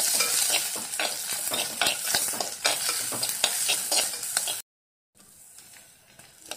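Chopped onion, ginger, garlic and green chilli sizzling in hot coconut oil in a clay pot while a steel spoon stirs them, with quick scrapes and taps against the pot. The sizzle cuts off abruptly a little past four seconds in, and after a moment of silence only faint stirring is left.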